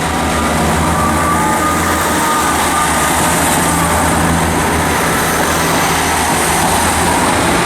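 Diesel multiple-unit trains' underfloor engines running with a steady low rumble and a few faint steady tones above it.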